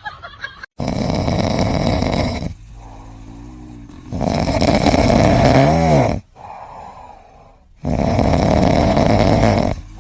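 A pet snoring loudly: three long snores of about two seconds each, with quieter breaths in between.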